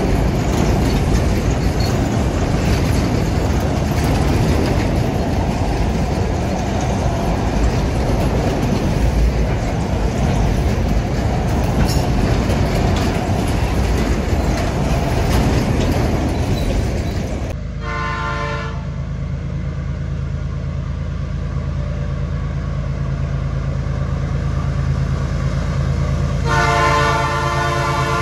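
Freight boxcars rolling past close by, a dense steady rumble of steel wheels on rail. The sound then changes abruptly to a diesel locomotive approaching, its engine a steady low hum, sounding its multi-tone horn twice: a short blast about eighteen seconds in and a longer one near the end, the warning for a level crossing.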